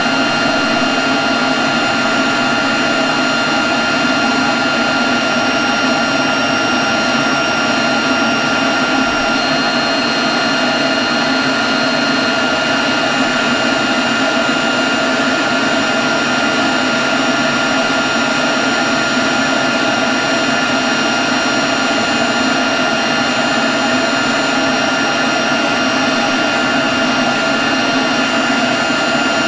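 Leaf blower running at a steady, constant speed: a rush of air with a high whine held over it.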